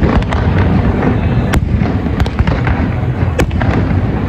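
Fireworks display going off: a dense, continuous rumble of booms with many sharp cracks over it, the loudest at the very start, about a second and a half in, and near the end.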